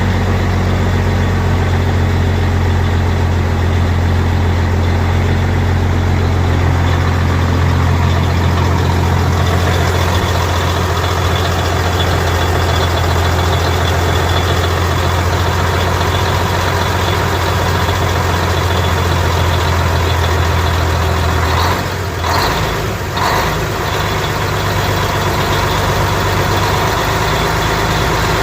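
Truck engine idling steadily with a deep, even hum. About three-quarters of the way through, the hum dips briefly and a couple of sharp knocks are heard, then the idle carries on.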